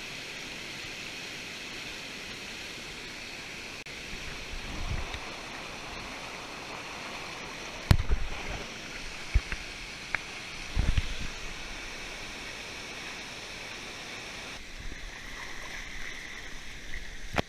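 Steady rush of a waterfall and stream. A few sharp knocks and low thumps come in the middle, and the water sound changes abruptly near the end.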